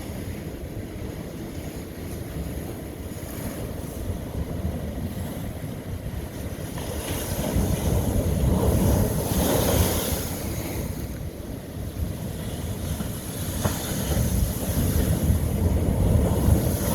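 Ocean waves breaking on rough lava rock, with the surf swelling louder twice, about halfway through and again near the end, over a steady wash of water. Some wind buffets the microphone.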